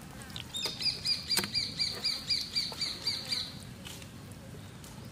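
A bird calling a fast, even series of high chirps, about four a second for some three seconds, then stopping.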